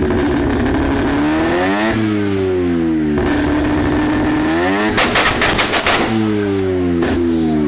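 A modified car engine being revved again and again, its revs climbing and falling every second or two. About five seconds in comes a rapid burst of loud exhaust pops and bangs.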